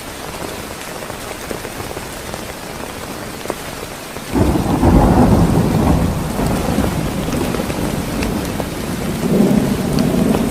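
Heavy rain falling steadily with scattered drop ticks. About four seconds in, thunder breaks suddenly and loudly and rumbles on, swelling again near the end.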